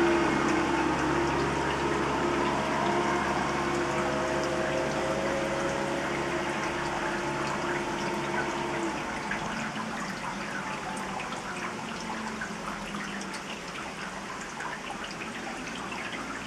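Rain falling in a garden, with many small drop ticks, while a helicopter's droning tone fades away and is gone about halfway through.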